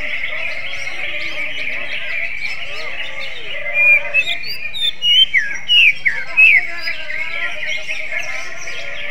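Green leafbird (cucak ijo) singing a fast, varied run of chirps and sliding whistled notes, louder in the middle, with phrases like an oriental magpie-robin's (kacer).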